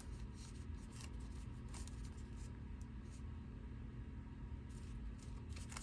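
Faint rustling and light clicks of paper ephemera and small craft pieces being handled and sorted through a box, a few soft rustles scattered over a steady low hum.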